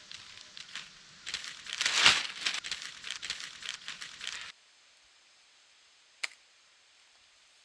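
Plastic sheeting crinkling and rustling as it is handled and folded, loudest about two seconds in, then cutting off suddenly just past halfway. A single sharp click follows a couple of seconds later.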